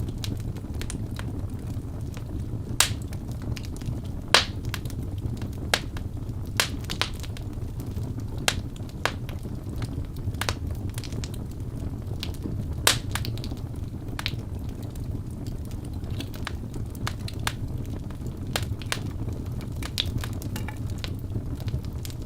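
Wood fire in a fireplace: logs burning with a steady low rumble and frequent sharp, irregular crackles and pops, a few of them louder.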